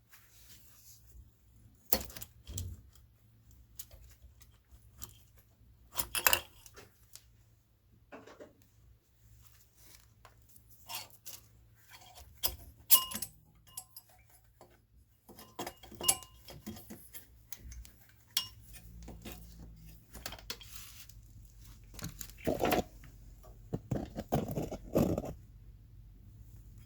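Metal tools and parts clinking and knocking in an irregular series of sharp clicks, with a louder run of clattering near the end.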